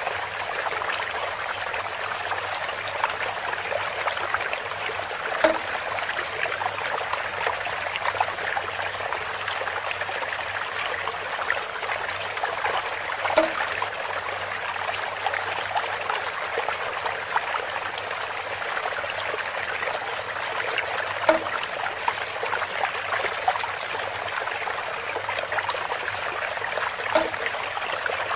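Water trickling steadily through a bamboo spout, with four louder pitched plops several seconds apart.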